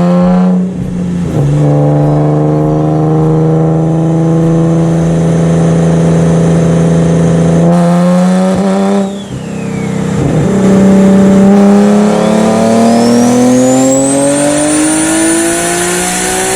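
Turbocharged Nissan 370Z V6 accelerating hard, its engine note climbing steadily, with two sudden drops in pitch at the shifts, about a second in and about nine seconds in. A high turbo whistle climbs with the revs over the last few seconds.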